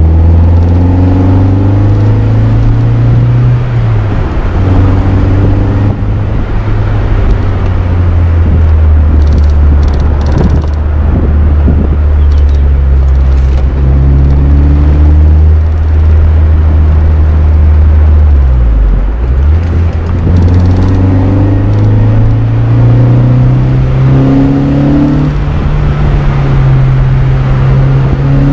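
Mazda MX-5 NB 1.8's four-cylinder engine through an M2 Motorsport aftermarket exhaust, pulling up through the revs, dropping at a gear change about four seconds in, then holding a steady cruise. Near the last third the revs fall away briefly and then climb again under acceleration.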